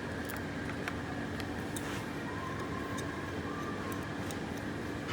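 Steady background hum with a faint low tone running through it, and a few light, faint clicks.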